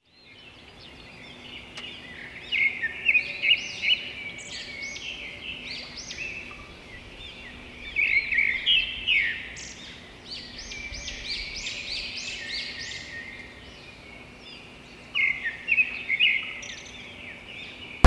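Small birds chirping and twittering, with three louder bouts of quick, high chirps: about two and a half seconds in, about eight seconds in, and about fifteen seconds in.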